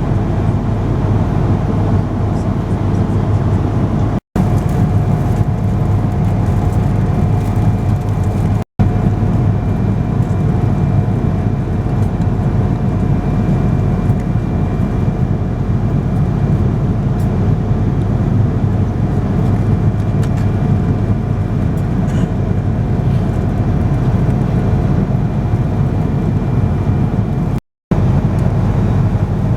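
Steady cabin noise of a Boeing 777-200ER in cruise: engine and airflow drone with a faint steady whine over it. It drops out for a split second three times.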